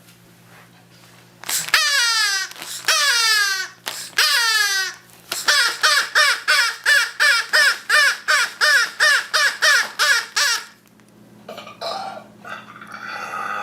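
Bird squawking: two long descending squawks, then a rapid run of short cawing calls, about two and a half a second, lasting some five seconds.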